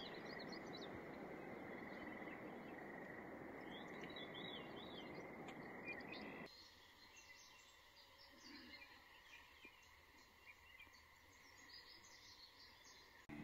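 Faint outdoor evening ambience: small birds chirping over a soft hiss, with a steady high-pitched drone. About six and a half seconds in the sound changes abruptly to a quieter background with scattered bird chirps.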